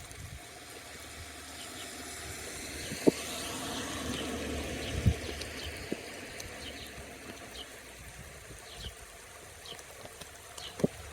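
Rain falling, with scattered sharp drop hits close by, under a rushing noise that builds over the first few seconds and then fades away.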